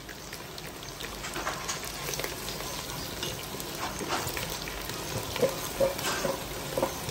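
Chopped onion and ginger-garlic paste sizzling and crackling in hot oil in a pot, with a slotted spatula scraping and stirring through it, more strongly in the second half, as the ground chili and turmeric are fried in.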